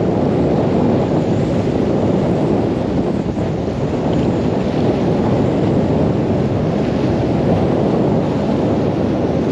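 Strong gale-force wind buffeting the microphone, a loud steady rumbling noise with no breaks.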